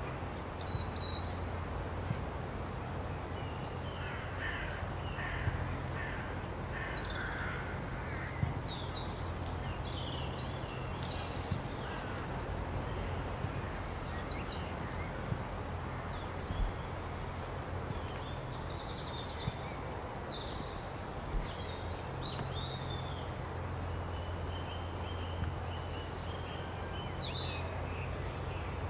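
Wild birds calling in the open: a run of harsh, caw-like calls about 4 to 8 seconds in, then scattered short chirps and whistles. Under them runs a steady low rumble.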